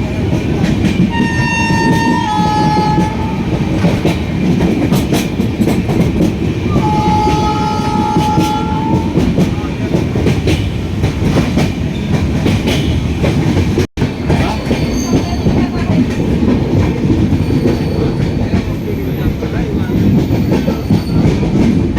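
Passenger train running on rails, with a steady rumble and the clatter of wheels over rail joints. A train horn sounds twice, about a second in and again about seven seconds in. The sound cuts out for an instant about halfway through.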